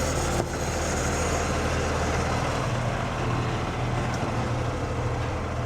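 Cummins diesel engine of a heavy International truck running steadily, a low even hum with no change in speed.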